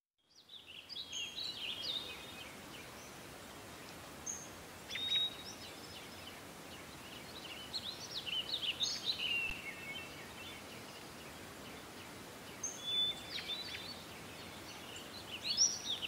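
Small birds chirping in scattered short phrases over a faint steady hiss.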